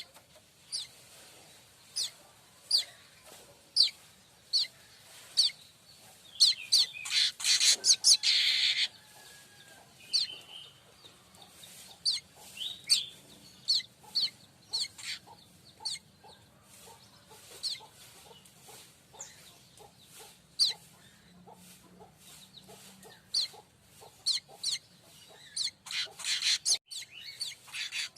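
Streaked weaver (manyar kembang) singing: a string of short, sharp, high chirps roughly one a second, broken twice by a dense buzzing rattle lasting a second or two, about seven seconds in and again near the end.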